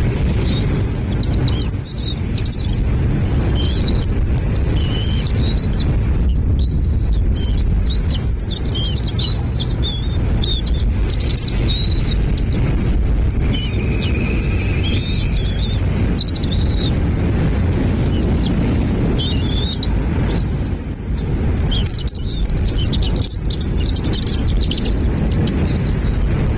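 Small birds chirping and twittering in quick, repeated high-pitched notes over a steady low rumble. About halfway through comes a short buzzy call of several stacked tones.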